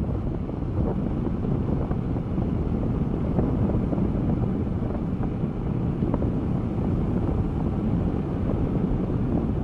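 Wind buffeting the microphone of an action camera on a motorcycle riding at speed: a steady, dense low rumble of wind and road noise.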